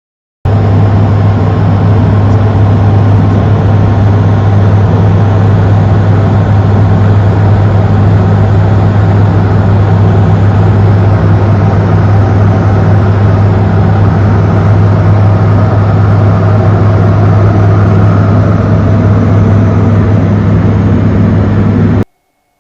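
Steady drone of a Sting S4 light aircraft's piston engine and propeller in cruise, heard inside the cockpit, with a strong low hum. It cuts in abruptly about half a second in and cuts off abruptly near the end.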